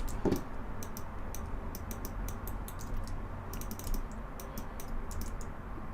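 Irregular clicking of a computer keyboard and mouse, with a low steady hum underneath.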